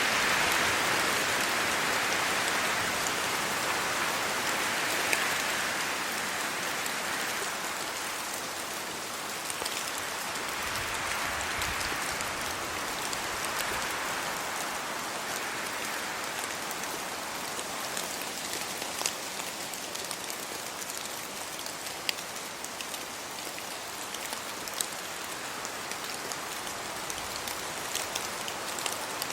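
Rain falling on trees and leaves: a steady hiss with scattered sharp ticks of individual drops. The hiss is louder at first and eases over the first several seconds.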